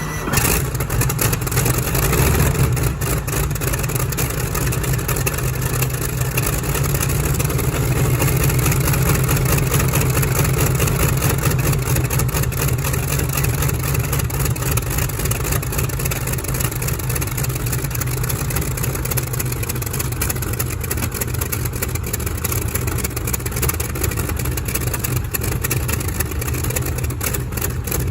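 Big old Curtiss-Wright piston aircraft engine running loud and steady, with a sharp burst just after the start.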